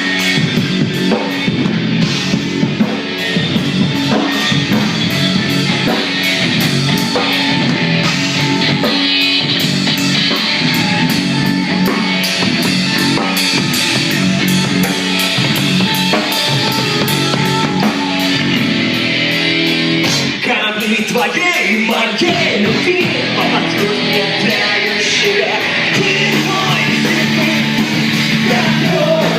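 A rock band playing live: electric guitar over a drum kit, with cymbals struck on a steady fast beat.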